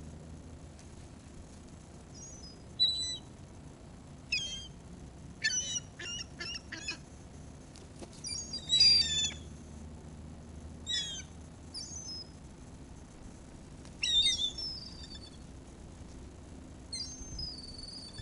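Gulls calling in short, high, falling cries, a burst every second or two, the loudest cluster about nine seconds in.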